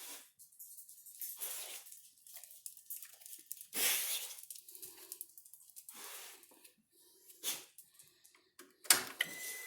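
Scattered rustling and handling noises, with a steady high-pitched electronic beep starting near the end.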